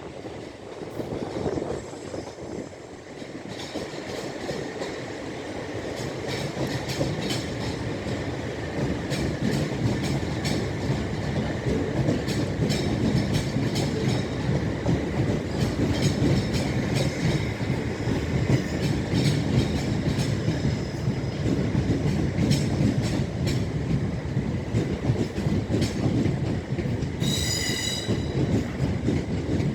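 Electric multiple-unit train running along the platform, its rumble building over the first few seconds into a steady loud run, with a rapid clatter of wheels over rail joints. A brief high-pitched squeal-like tone sounds near the end.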